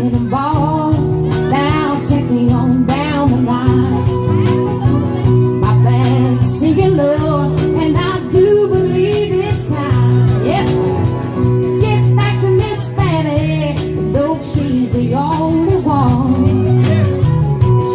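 Song with voices singing a verse over a strummed guitar, with backing vocals joining the lead.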